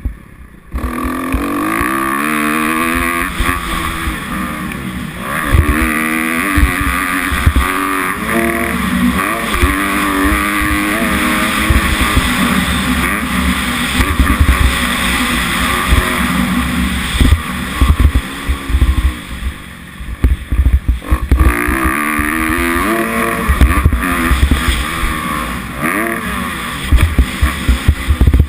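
Kawasaki 250F motocross bike's four-stroke single engine revving up and down repeatedly as it is ridden around a track, with throttle shut off for a few seconds past the middle before it picks up again. Wind buffets the GoPro microphone and short low knocks come through from the bumps.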